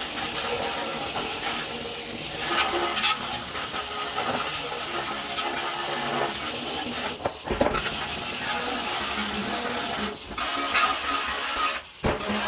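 Workshop restoration noise: a dense, hissing clatter of tool and metal work, broken by several abrupt cuts between clips.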